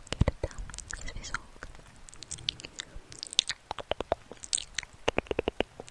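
Close-miked ASMR trigger sounds: quick, irregular clicks and crackles, with two short rapid runs of clicks, one about four seconds in and one about five seconds in.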